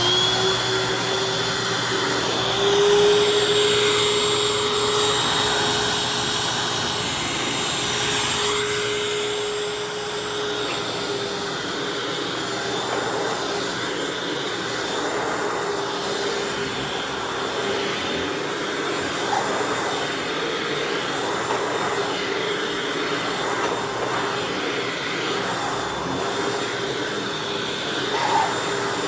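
Upright vacuum cleaner running steadily while vacuuming, a constant motor whine over the rush of suction.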